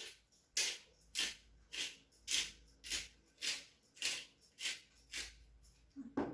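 Salt shaker being shaken over raw chicken thighs: about ten short rattling shakes, roughly two a second.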